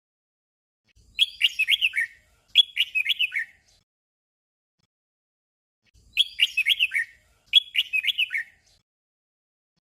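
Red-whiskered bulbul singing a short, quick warbled phrase twice in a row, then after a pause of about two and a half seconds the same doubled phrase again.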